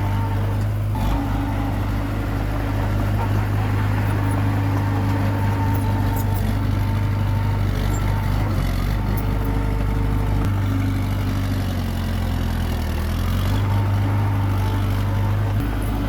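Komatsu D21P bulldozer's diesel engine running steadily under load. Its pitch sags for a couple of seconds past the middle, then picks back up near the end.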